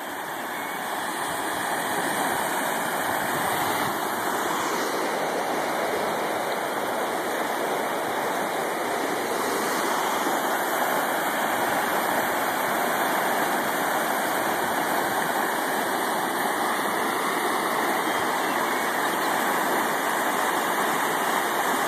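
Spring floodwater rushing hard through where a road has washed out. It grows louder over the first two seconds, then holds steady.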